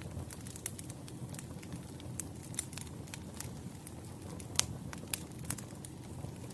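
Wood campfire burning: a steady low rumble of flames with frequent irregular sharp crackles and pops from the burning logs, one louder pop about four and a half seconds in.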